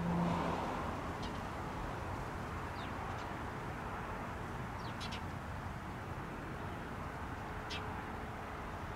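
Small birds chirping briefly about six times over a steady background hiss. A low steady hum stops about half a second in.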